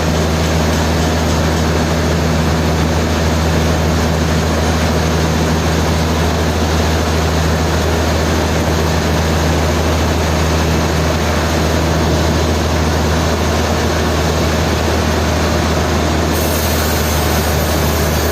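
Heavy sawmill machinery running steadily: a loud, even low hum with a dense rushing noise over it.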